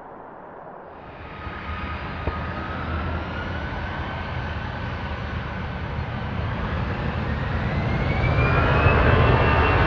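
Jet airliner's engines, a rumbling roar that grows steadily louder, with a whine in it that rises in pitch.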